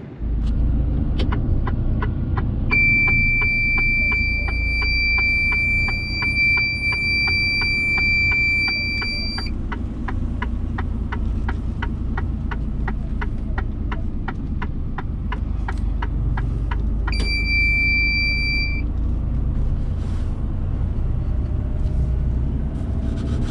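Steady engine and road rumble inside a moving lorry's cab, with a fast, regular ticking for most of the stretch. A steady high electronic warning beep sounds for about six seconds and again briefly near the end.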